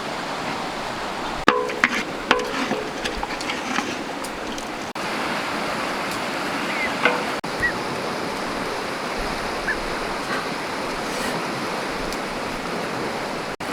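Steady rushing noise like running water, with scattered clicks and knocks, broken by several abrupt cuts.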